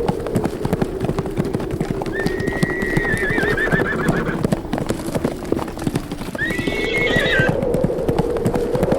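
A herd of horses galloping, a dense stream of hoofbeats, over a steady low wind. A horse whinnies about two seconds in, a long call ending in a quaver, and again more briefly near the seven-second mark.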